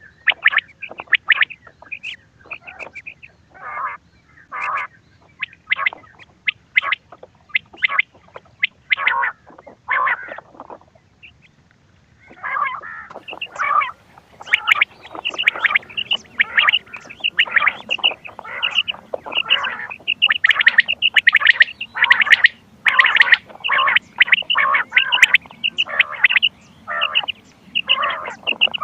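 Quail calling in short, rapidly repeated notes from a recorded hunting call. The calls are spaced out at first, stop for about a second near the middle, then come thick and fast with overlapping notes.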